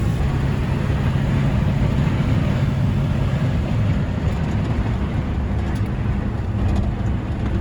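Ford F-100 pickup truck's engine running steadily, a continuous low hum with some road or wind noise over it.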